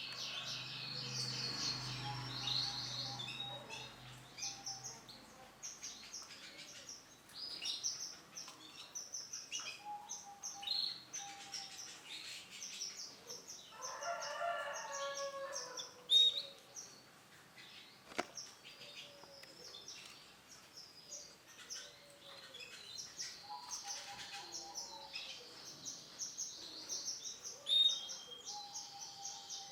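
Male canary singing: fast high trills and chirps, repeated in runs through the whole stretch. About halfway through comes a louder, lower call.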